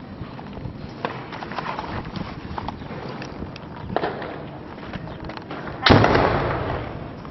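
Gunfire in a firefight: a few sharp shots, then one loud bang about six seconds in that echoes away over a second or more.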